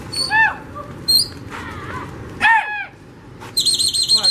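Birds calling: a few short rising-and-falling cries and a quick high chirp, then a fast, high warbling trill near the end.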